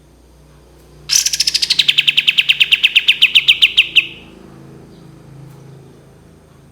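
Kapas tembak bulbul singing one rapid, loud trill of about a dozen notes a second, lasting about three seconds. It starts high, drops quickly to a steady lower pitch and cuts off; this rattling burst is the 'tembakan' (shot) of its song.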